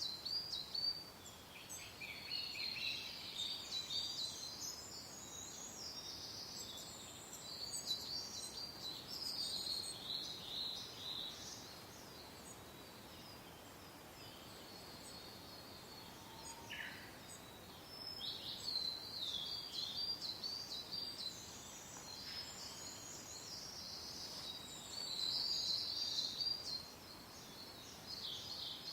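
Several songbirds singing and chirping in quick, high-pitched phrases, thinning out briefly about halfway through, over a faint steady hiss of soft wind.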